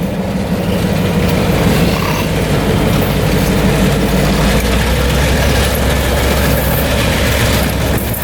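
EMD SW1200 switcher's diesel engine running with a steady low drone as the locomotive moves its train.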